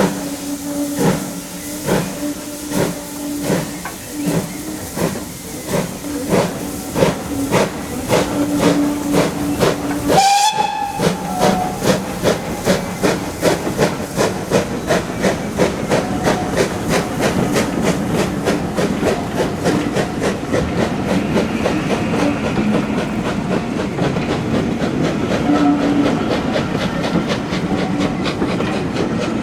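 Steam locomotive working hard with its exhaust beats quickening as it gathers speed, and a short blast on its steam whistle about ten seconds in.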